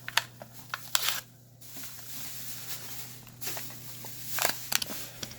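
A toy car's blister pack being pried open: crinkling plastic and tearing cardboard, with scattered clicks and snaps.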